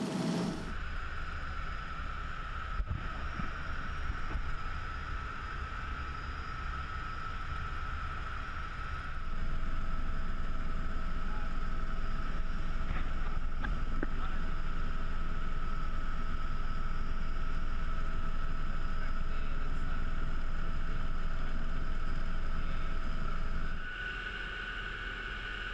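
Steady aircraft engine drone heard from inside the aircraft: a constant low rumble with a steady whine over it. The level steps abruptly about a second in, about nine seconds in and near the end.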